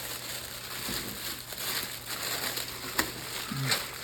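Packaging being handled: rustling and crinkling, with a couple of sharp clicks about three seconds in.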